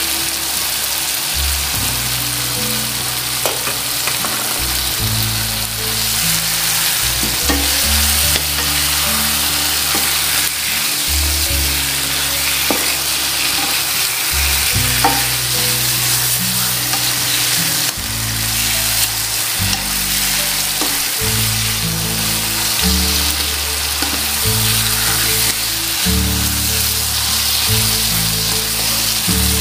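Goat meat and potato chunks sizzling in oil and curry paste in a non-stick wok, with the scrape and clack of a slotted spatula stirring them. The meat is being seared in the spice paste before water goes in. Low held notes change every second or two underneath.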